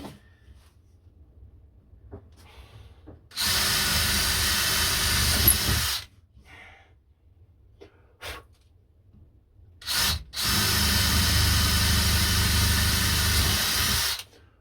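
Handheld electric power tool running twice in short runs, about two and a half seconds and then about four seconds. Each run starts and stops abruptly.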